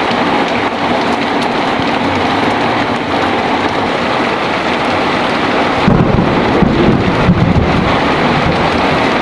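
Heavy, steady rain, with a roll of thunder rumbling in about six seconds in and lasting around two seconds.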